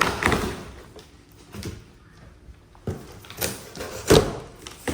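A large cardboard shipping box being opened and handled: scrapes and knocks of the cardboard, with a louder thud near the end.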